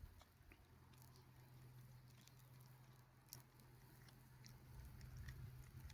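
Faint chewing and small clicks from a dog eating scraps of barbecued meat, over a low steady hum.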